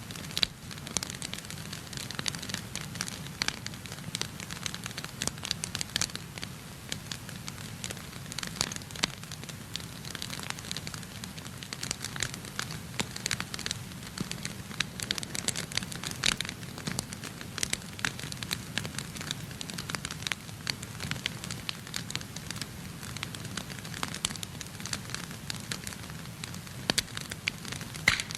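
Wood fire burning in a fireplace: a steady low rumble under frequent, irregular sharp crackles and pops.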